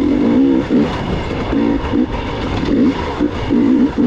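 Gas Gas EX 300 two-stroke enduro motorcycle engine revving up and down in short throttle bursts, with rough rumble and wind beneath.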